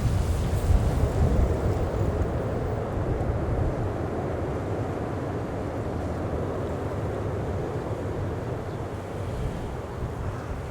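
Distant jet noise from a USAF C-5M Super Galaxy's turbofan engines: a broad, steady rumble that slowly fades, with wind buffeting the microphone.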